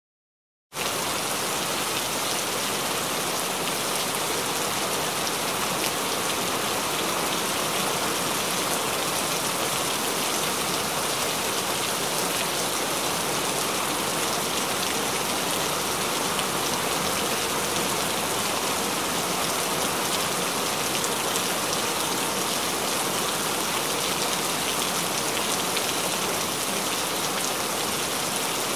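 Steady rain falling and splashing on a wet surface, cutting in suddenly under a second in after a moment of silence.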